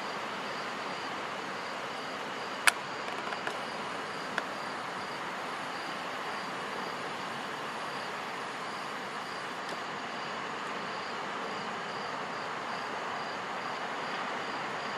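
Steady wash of sea surf at night, with an insect chirping in an even, repeating pulse over it. Two sharp pops, likely from the bonfire, come about three seconds and four and a half seconds in, the first louder.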